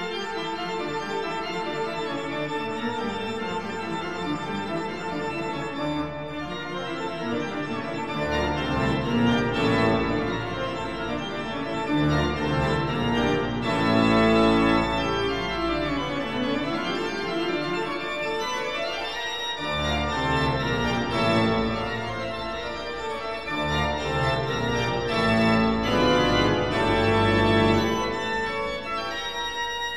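Instrumental organ music with sustained chords, and a bass line coming in about eight seconds in.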